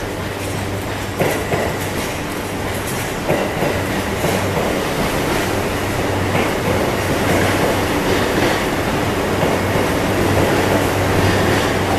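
JR East E235 series 1000-subseries electric commuter train rolling past, a steady rumble of wheels on rail with a low hum. Its wheels clack over rail joints a few times, and the sound grows gradually louder.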